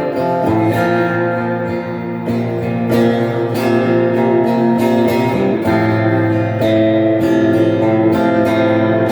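Electric guitar played through a Crate amp with reverb, strumming chords that ring on, with the chord changing every second or two.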